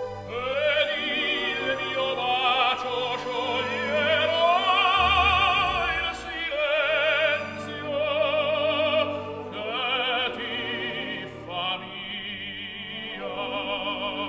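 An operatic singer with a wide vibrato sings long held phrases of an aria over an orchestra.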